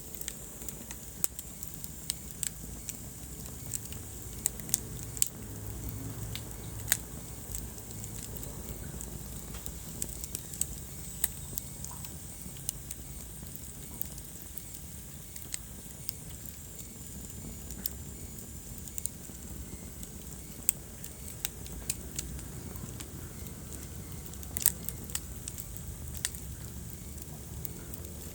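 Wood fire burning in a fireplace, with a steady low rumble of the flames and irregular sharp crackles and pops, several of them a second.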